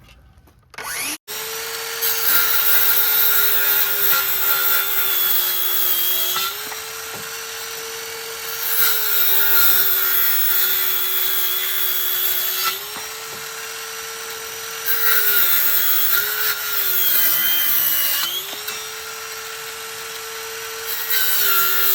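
Electric bladed power tool switched on just over a second in and cutting, its motor tone sagging and recovering under load, with harsh cutting noise that comes and goes in stretches of a few seconds; the blade is cutting well enough.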